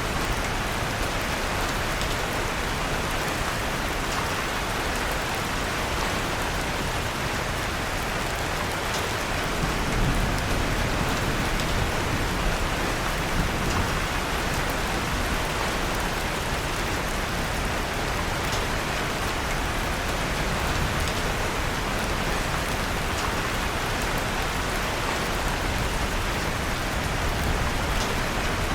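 Steady rain mixed with scattered faint crackles from a wood fire in a fireplace, with a slight low swell about ten seconds in.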